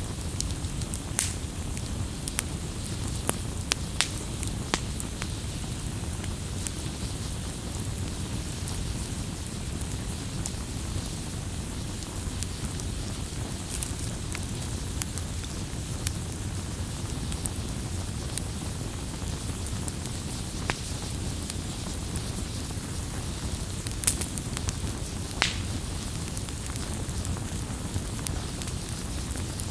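Wood campfire burning: a steady low rush of flames with scattered sharp crackles and pops. The crackles cluster in the first few seconds, with a couple of louder pops a little before the end.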